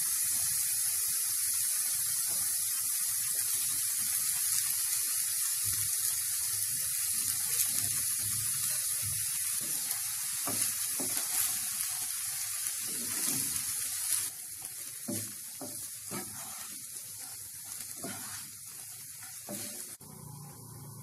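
Cooked rice and vegetables sizzling in hot oil in a nonstick kadai as they are stir-fried, with a wooden spatula stirring and tossing the rice. The sizzle drops quieter about two-thirds of the way through.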